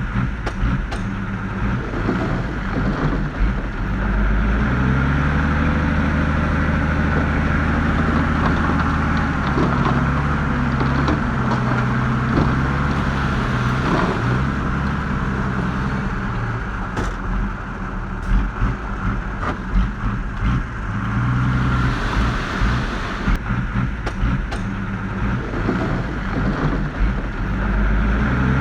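Diesel engine of heavy earthmoving machinery running and revving up and down repeatedly under load, with occasional sharp knocks.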